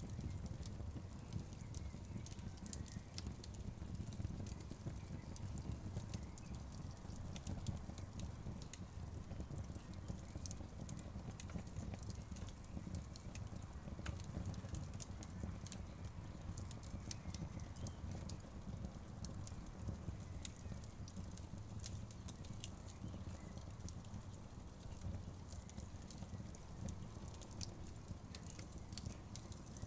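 Wood fire crackling: burning logs giving scattered sharp pops and snaps over a steady low rumble.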